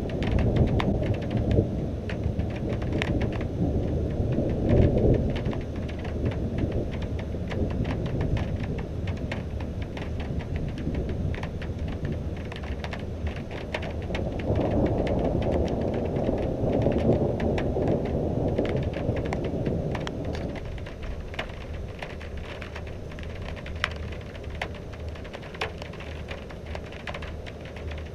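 Thunderstorm: rain falling with many sharp drips ticking on a hard surface. Thunder rumbles at the start, then again in a long roll from about halfway through that fades away.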